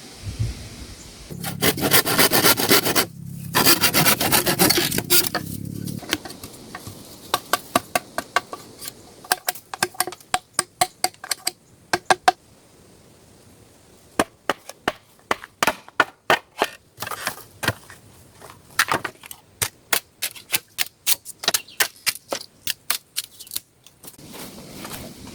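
A few seconds of scraping and rustling, then a long irregular run of sharp knocks and cracks, several a second, with short pauses, until near the end.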